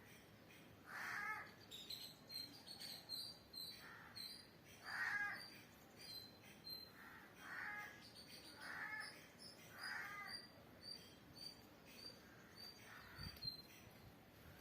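Birds calling: a harsh cawing call repeated every second or two, with a small bird chirping in quick short high notes through most of it.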